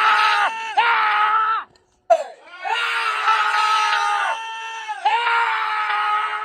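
Shouting: long, drawn-out yells held at a steady high pitch, four or so in a row with short breaks between them.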